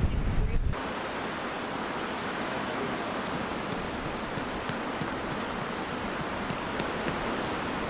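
Strong wind on the microphone: heavy low buffeting for about the first second, then a steady, even hiss.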